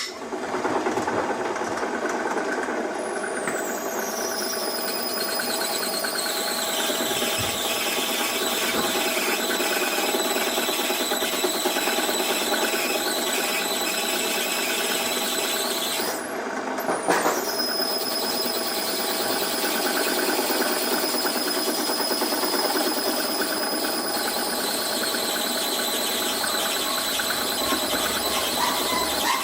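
Drill bit squealing steadily as it bores into a small metal ball of tough metal. The squeal breaks off briefly about sixteen seconds in, then starts again with a high whine falling in pitch.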